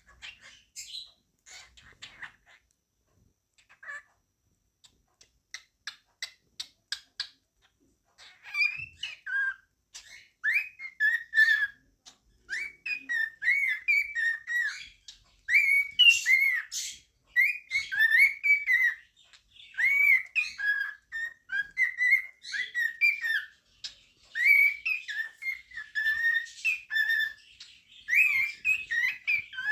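Male cockatiel whistling his song: scattered short clicks and chirps at first, then from about eight seconds in a long run of whistled notes that rise and fall in pitch.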